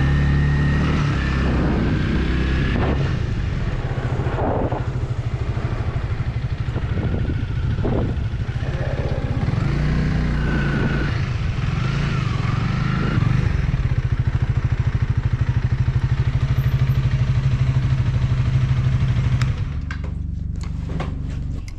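Honda Rebel 300's single-cylinder engine running at low speed with a steady pulsing note. Near the end it drops away, followed by a few sharp clicks.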